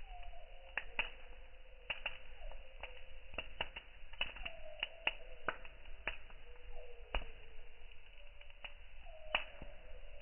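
Campfire wood crackling, with irregular sharp pops and snaps, under a faint wavering whistle.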